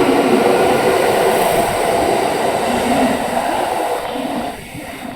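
Kintetsu 9820 series electric train moving through the station: wheel-and-rail rumble with a motor hum that drops in pitch, the whole sound getting quieter about four seconds in.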